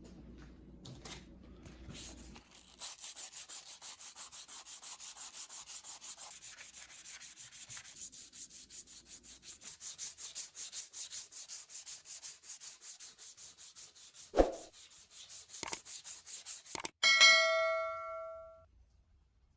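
Hand sanding or scrubbing on an old Soviet cast-iron kettlebell: quick, even back-and-forth strokes, about five a second. Near the end comes a dull knock, then a sharp metallic ding that rings for about a second and a half.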